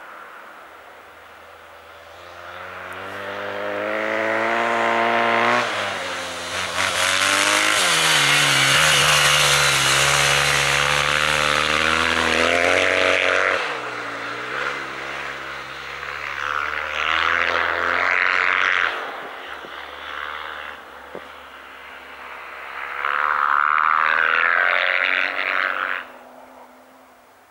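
Ice-racing engines at full throttle as cars and a motorcycle slide past on the frozen lake, revving and climbing in pitch, then dropping briefly about 14 s in. A loud rushing noise rides over the engines during the longest pass, with two more hard surges later before the sound fades near the end.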